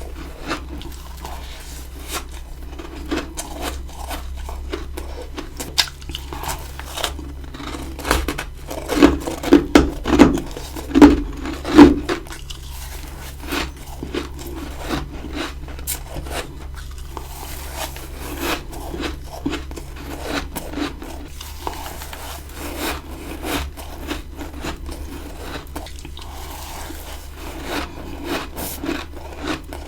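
Close-miked ice eating: repeated crunching bites and chewing of ice, coming in short crisp crackles, with a run of louder bites about eight to twelve seconds in.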